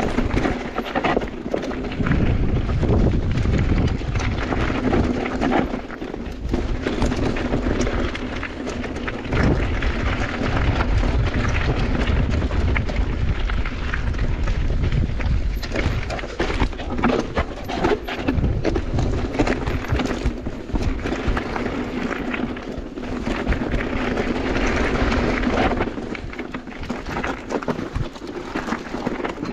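Mountain bike riding down a bike-park trail: tyres rolling on dirt and gravel, with the bike rattling and clattering over bumps and a steady rumble.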